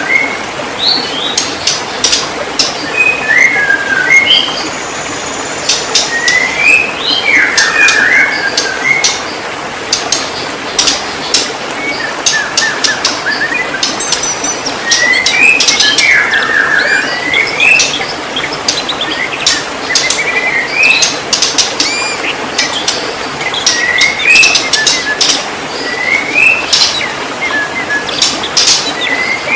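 White-rumped shama singing: rapid, varied phrases of short whistled notes that glide up and down, mixed with sharp clicking notes, over a steady hiss.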